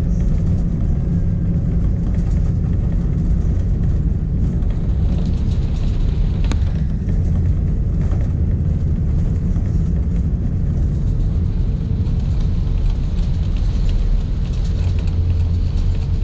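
Airbus A330-200 cabin noise: a steady, loud low rumble from the airliner heard inside the cabin, with a faint steady hum above it and a single brief click partway through.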